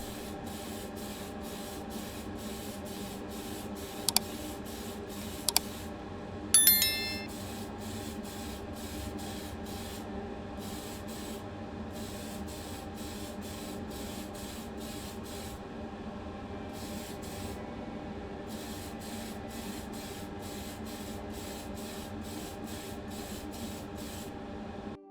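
Paint being sprayed onto a diecast toy car body for its colour coat: a steady spray hiss that pulses quickly, over a constant hum, with a few sharp clicks and one louder click with a brief ring about six and a half seconds in.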